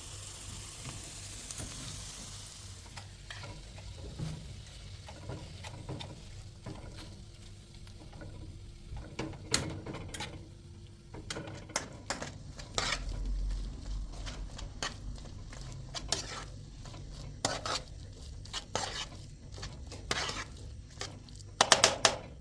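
Food sizzling in a frying pan for the first few seconds, then scattered clinks and scrapes of a utensil stirring against the pan, with a quick run of sharp clatters near the end.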